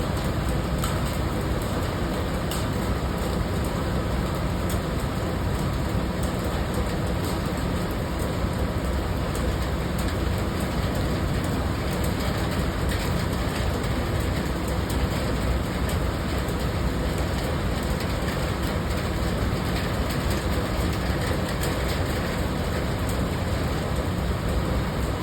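Steady rain falling, with scattered drops ticking over a continuous low rumble.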